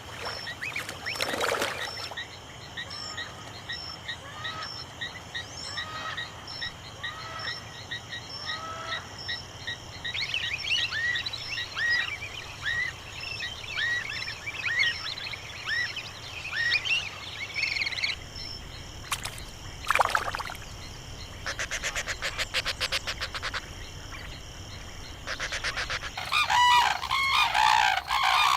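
Natural outdoor ambience of many birds calling, with repeated short chirps and little gliding whistles, and a fast buzzing trill about two-thirds of the way through. In the last few seconds a louder run of repeated croaking calls sets in.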